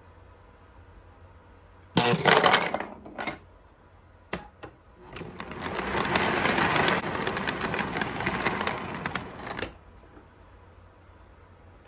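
Small plastic Lego pieces clattering out of an operating toy-train car: a sudden loud clatter about two seconds in, a few sharp clicks, then about four seconds of continuous rattling that swells and fades.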